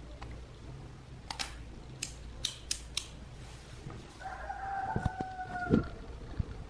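A few sharp clicks of small tools being handled, then a rooster crowing in the background, one steady call of about a second and a half with a few low knocks near its end.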